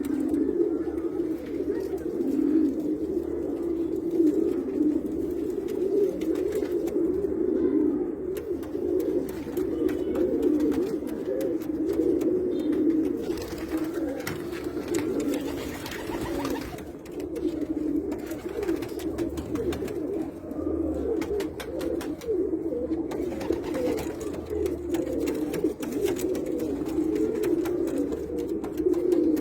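A flock of Pakistani pigeons cooing, many coos overlapping with no break.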